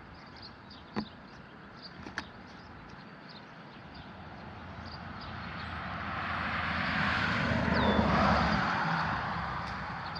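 A vehicle passing by: a broad rush of noise that builds over several seconds, peaks about eight seconds in, then fades.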